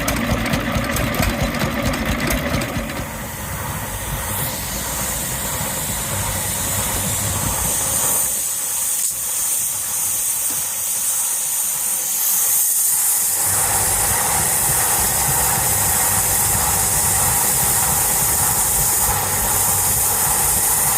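Vintage engines running with a regular beat, joined after about three seconds by a steady hiss of escaping steam from a steam engine. The engine beat fades for a few seconds in the middle, then returns under the hiss.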